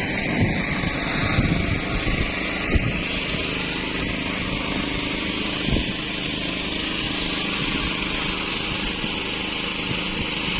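An engine runs steadily, with a few short knocks in the first six seconds.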